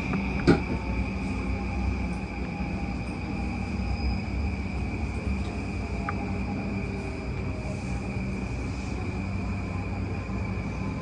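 Interior running noise of a JR East E235-0 series electric train's motor car at speed: a steady rumble with a continuous high-pitched tone over it, and one sharp knock about half a second in.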